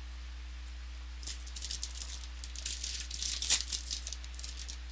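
Crinkling and rustling of a Topps Strata football card pack and its cards being handled, most likely as the next pack is opened. It comes as a quick run of sharp crackles, loudest about three and a half seconds in, over a steady low electrical hum.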